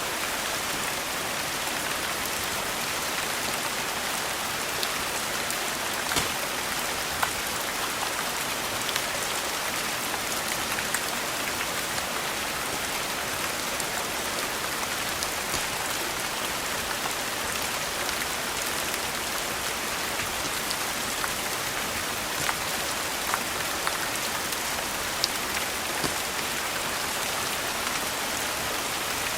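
Steady rain falling, a dense even hiss, with scattered sharp crackles from a log fire mixed in.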